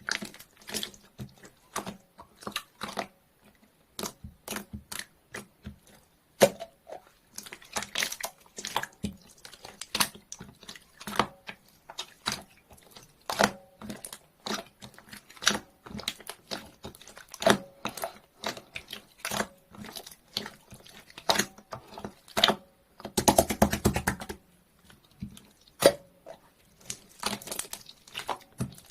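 Clear slime being pressed and worked by hand, giving irregular sharp sticky clicks and pops, with a dense crackling stretch about three quarters of the way through.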